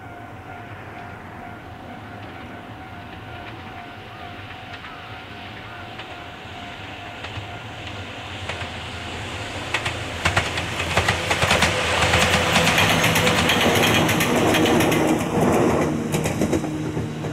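Ohmi Railway electric train set 105F passing on the line, its sound growing from faint to loud. From about ten seconds in, the wheels clack over the rail joints, loudest for several seconds, then easing as it runs away.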